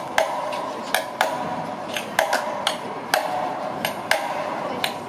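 Construction-material percussion (buckets, pipes, wood and tools used as drums) striking a sparse beat, sharp hits about twice a second in an uneven rhythm.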